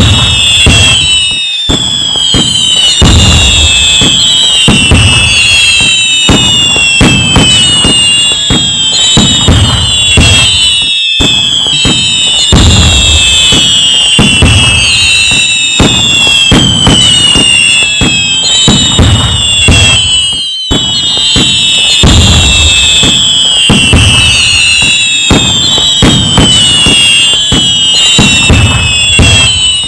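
Loud fireworks: many high whistles falling in pitch, dense crackling, and low booms every couple of seconds. The same sequence repeats roughly every ten seconds, each time after a brief cut-out.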